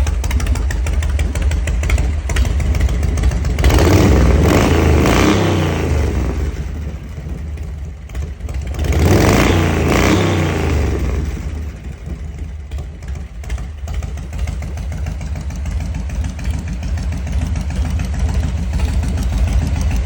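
Custom Harley-Davidson V-twin engine idling, revved up twice and each time falling back to idle.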